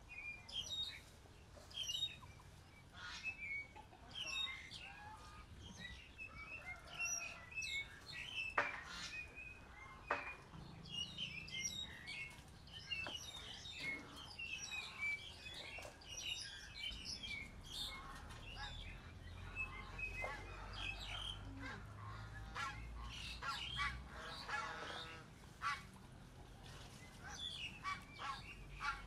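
Birds chirping and calling in a busy run of short calls, with a couple of sharp clicks about eight and ten seconds in.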